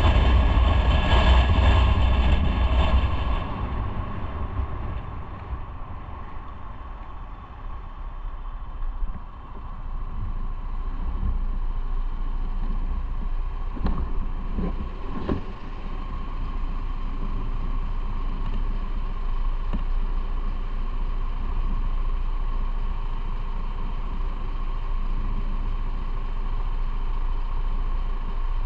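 Motorcycle engine running with wind noise, loud for the first few seconds and then dropping to a quieter steady running sound. Two short knocks come about halfway through.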